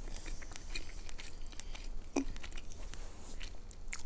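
Close-miked chewing and mouth sounds of a person eating, with many small wet clicks scattered throughout.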